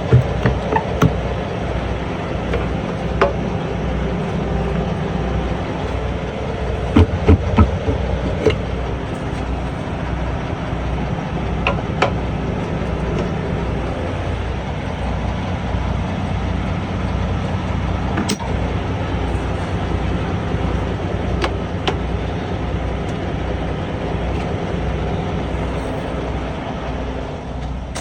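Semi-truck engine running steadily with a low, even pulse, broken by a few sharp clicks and knocks, a cluster of them about seven seconds in.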